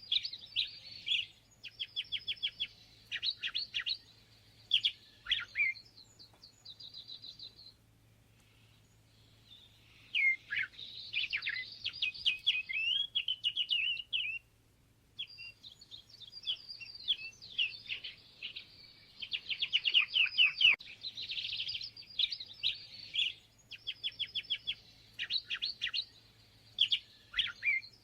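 A songbird singing long, varied phrases of rapid high chirps and trills, broken by a couple of pauses of a second or two.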